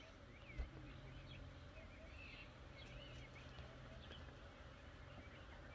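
Faint bird calls: short chirps and whistled notes that rise and fall, scattered throughout over a low steady hum. A single dull thump comes about half a second in.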